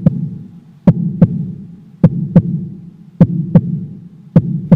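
Heartbeat sound effect: a low lub-dub double thump repeating about once a second, five beats in all, over a steady low hum. It cuts off suddenly at the end.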